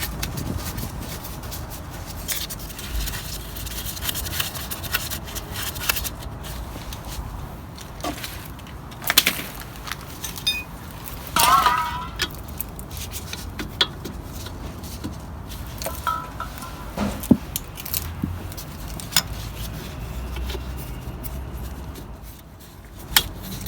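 Irregular metal clicks, clinks and knocks of hand tools and steel parts as a car's front brake caliper is refitted and its bolts are done up, with a short squeak about halfway through.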